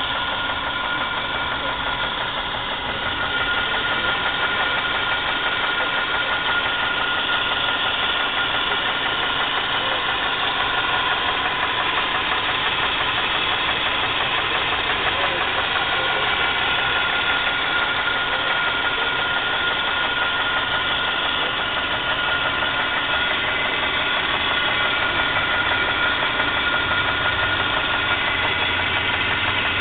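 Engine running steadily at idle with a fast, even knock that the owner puts down to the fourth cylinder.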